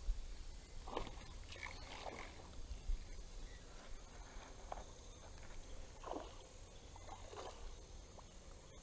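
Short, scattered splashes of creek water, roughly one a second, as a hooked smallmouth bass fights on the line. Under them runs a low rumble of wind on the microphone.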